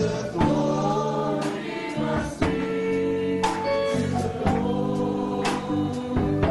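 Gospel music: a choir singing over instrumental backing, with a beat about once a second.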